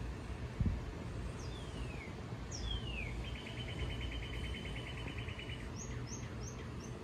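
A bird calling: two whistled notes that slide down in pitch, then a fast even trill lasting about two seconds, then four short rising chirps near the end. A steady low rumble runs underneath, with a single thump about half a second in.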